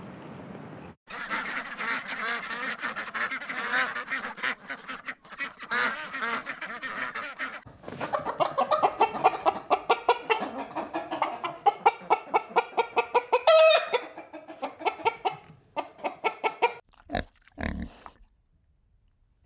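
A flock of domestic fowl calling over one another, with a fast run of repeated calls in the middle. The sound changes abruptly twice, as between cut-together clips.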